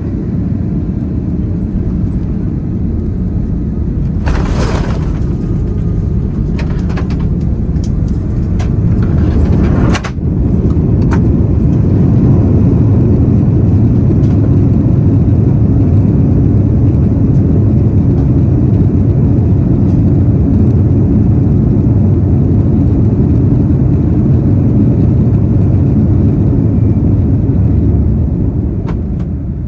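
Airbus A330-900neo landing, heard from inside the cabin: a steady low rumble, a brief rush of noise with rattles and clicks about four seconds in, then from about twelve seconds a louder steady rumble of the rollout, typical of reverse thrust and braking on the Rolls-Royce Trent 7000 engines, easing off near the end.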